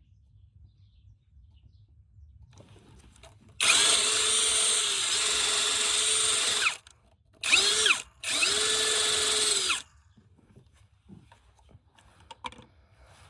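Handheld electric drill motor running in three runs: a steady three-second whir, a short burst, then about a second and a half more, its pitch bending as it spins up and winds down each time.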